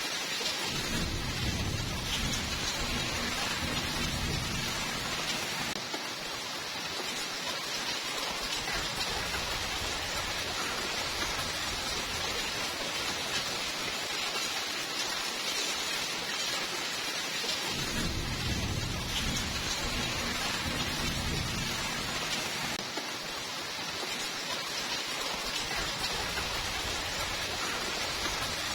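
Steady rainfall hiss with two low rolls of thunder: one starting about half a second in and lasting some five seconds, another starting about eighteen seconds in and lasting about five seconds.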